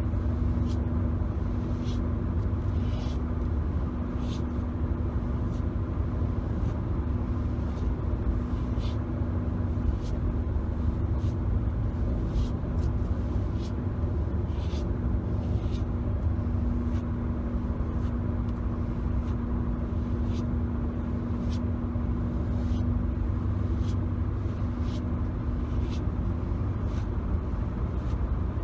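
Steady car-cabin rumble from the engine and road with a constant low hum. Over it come light fingertip taps and scratches on the car's interior surfaces, irregular, about one or two a second.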